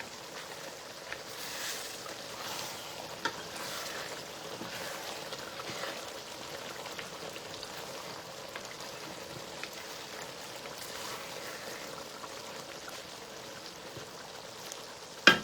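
Food frying in a cooking pot: a steady low sizzle with scattered small crackles and pops. A couple of sharp knocks near the end.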